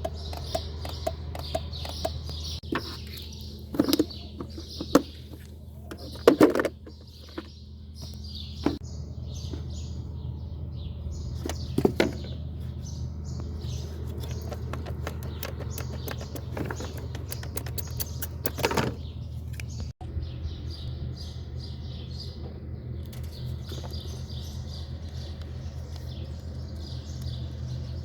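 Birds chirping repeatedly over a steady low hum, with scattered sharp clicks and knocks from hand work.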